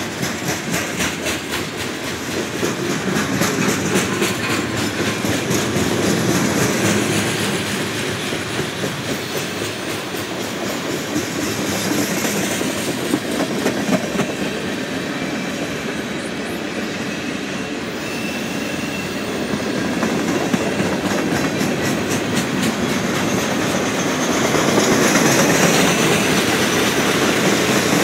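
Freight cars of a passing Norfolk Southern train rolling by: covered hoppers, tank cars and empty flatcars. Their steel wheels make a steady rolling rumble and clack in quick runs over the rail joints, growing a little louder near the end.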